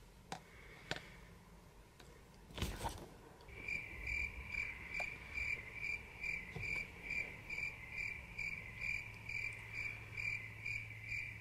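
A few faint clicks and a knock, then from about three and a half seconds in a high electronic beeping starts and repeats steadily, about two short beeps a second.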